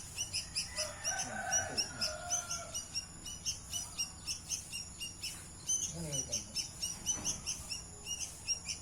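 White-breasted waterhen chicks peeping: short high chirps repeated rapidly, about four to five a second, with brief lower sounds about a second in and again around six seconds.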